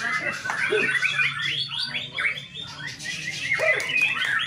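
Caged songbirds, white-rumped shamas among them, singing all at once in a dense, overlapping tangle of rapid whistles and chirps.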